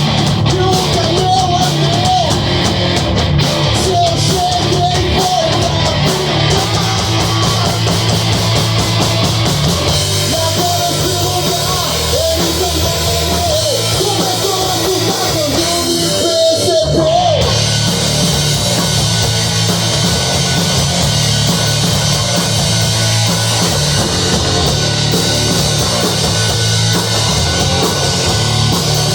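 Rock band playing a heavy rock song live in a rehearsal studio: electric guitar, bass and drum kit. A high melodic line runs over the band through roughly the first half, then the band carries on at full level without it.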